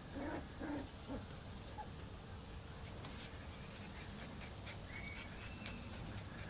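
Cairn terrier puppies playing, giving a few short yelps and grunts in the first second, then faint high squeaks near the end.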